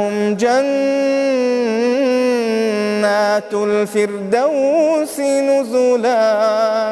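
Male voice reciting the Quran in melodic tajweed style, drawing out long, gliding held notes with a brief break a little past halfway through.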